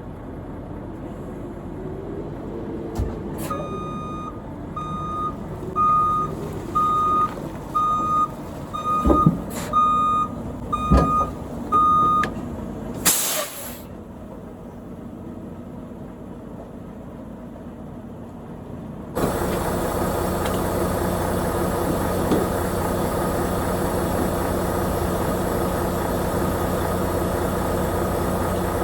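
Semi-truck backing up: its reversing alarm beeps about ten times, a little more than once a second, with two heavy clunks partway through. A short air-brake hiss follows the beeps, and about two-thirds of the way in a steady diesel engine drone takes over.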